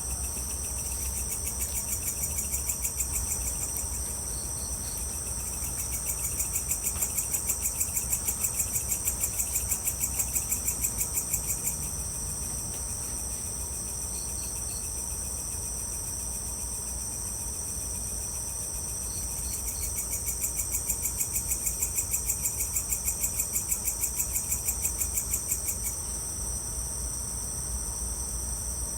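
Evening insect chorus of crickets: a steady high-pitched ringing, joined in two long spells by a louder pulsing trill at about four pulses a second, with short three-note chirps every few seconds. A steady low rumble lies underneath.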